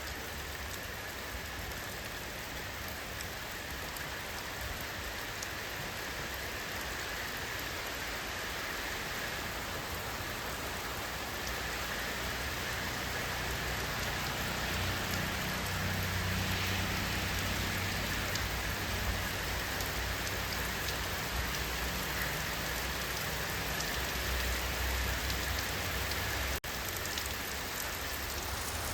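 Steady rain falling on surfaces, an even hiss of many drops. A low rumble swells beneath it through the middle and fades near the end, and the sound cuts out for an instant shortly before the end.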